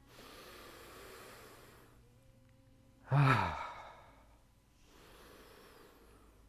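A person breathing audibly, then a voiced sigh that falls in pitch about three seconds in, followed by another long, soft breath: sighing out on the exhale in a relaxation breathing exercise.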